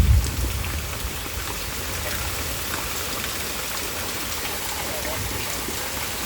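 Steady rain falling during a thunderstorm, an even hiss of drops, with a low rumble fading away in the first half second.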